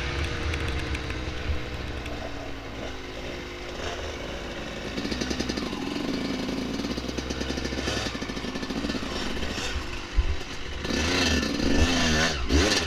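Dirt bike engine running. Its pitch falls over the first few seconds as the bike slows, then it runs on steadily and is revved up and down in quick blips near the end.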